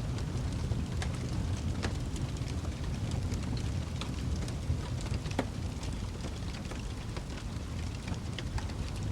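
Wood fire in a fireplace crackling: irregular sharp pops and snaps over a steady low rumble of the burning.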